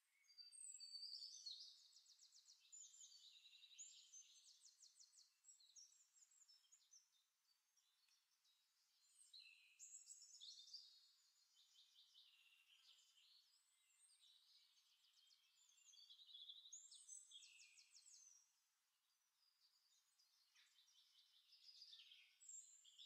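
Faint songbirds chirping and trilling: several phrases of rapid, high repeated notes, a few seconds apart.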